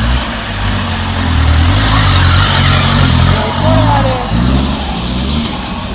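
Racing car's engine revving hard, its pitch rising and falling and loudest in the middle, with voices shouting in the background.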